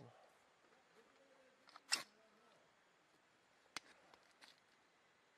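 Near silence broken by a sharp click about two seconds in and a fainter click near four seconds.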